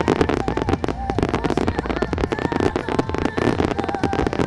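Starmine fireworks barrage: a dense, continuous run of rapid bursts and pops.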